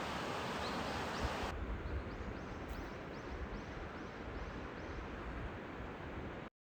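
Outdoor nature ambience: a steady rushing noise that cuts off abruptly about a second and a half in. It gives way to a quieter background with a run of short, rising high chirps, about three a second. The sound stops dead near the end.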